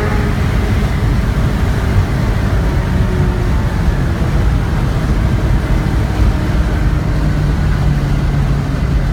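Ferrari 348tb's V8 engine running in a tunnel: a loud, steady low rumble, with a steady engine note coming through near the end.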